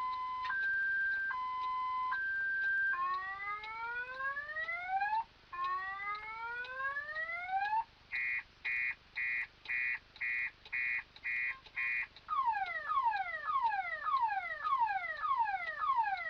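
Electronic car alarm siren cycling through its tone patterns. It alternates between two tones, then gives two slow rising whoops and a run of quick beeps about two a second, then ends on fast falling sweeps about three a second.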